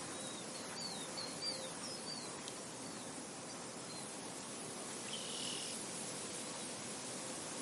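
Steady wind noise across a field, with small birds chirping in a run of short, quick high notes over the first couple of seconds and one brief buzzy call about five seconds in.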